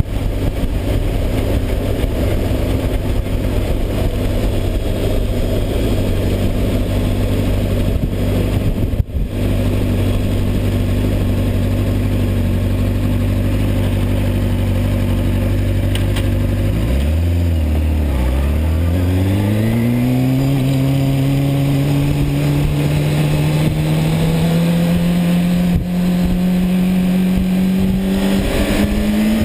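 Honda CBR600RR's inline-four engine under way, holding a steady note for the first half. About seventeen seconds in, the pitch dips briefly, then climbs steadily through the rest as the bike accelerates, with a constant rush of wind noise.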